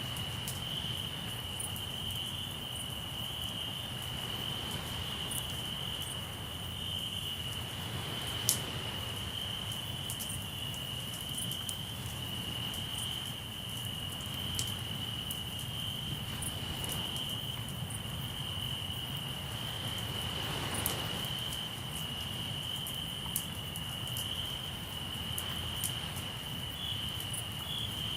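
Crickets trilling in one steady, unbroken high chorus over a campfire crackling with scattered sharp pops, one loud pop about a third of the way through. Underneath is a low, steady rumble with a couple of slow swells, fitting waves washing in.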